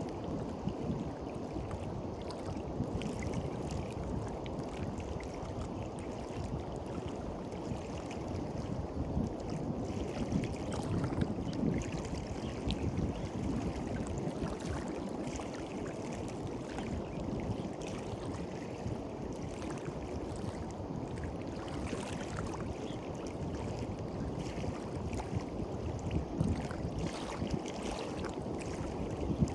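Small waves washing onto a beach, a steady rushing wash that swells a little now and then.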